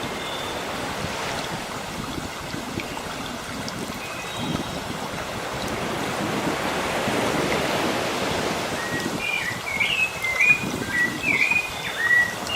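Sea waves washing onto the shore, one swelling and breaking about halfway through, with birds chirping over them: a few faint calls early on and a run of louder warbled notes near the end.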